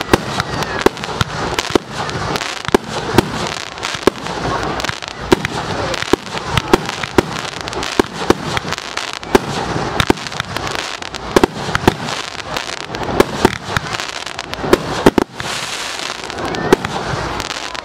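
Fireworks display going off close by: a rapid, unbroken run of sharp bangs, several a second, with crackling from the bursting shells in between.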